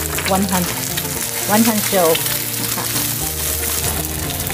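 An egg and chopped onions sizzling in oil in a frying pan while wooden chopsticks stir and scramble them, with background music underneath.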